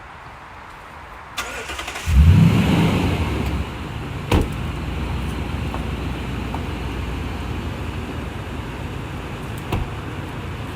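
Toyota Tundra pickup's engine starting about two seconds in, running up loud for a second or so, then settling into a steady idle. A few sharp clicks are heard before and during the run.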